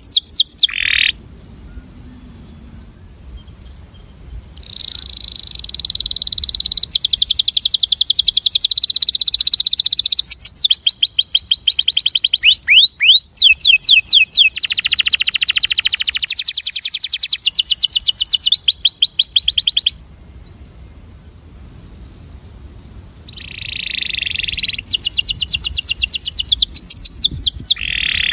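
Male domestic canary singing long bouts of fast, evenly repeated high trills that change speed and pitch from phrase to phrase, with a few seconds' pause between bouts. This is the song a breeding male uses to attract a female.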